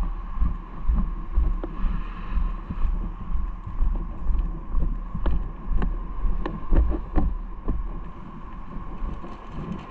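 Wind and ride noise buffeting an action camera's microphone during a bike ride, with low thumps in an uneven pulse of about two a second. A scattering of sharp clicks comes about five to seven seconds in.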